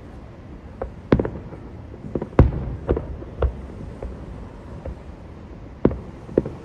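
Fireworks display: a string of about ten sharp bangs at irregular intervals, the loudest about two and a half seconds in, over a steady low rumble.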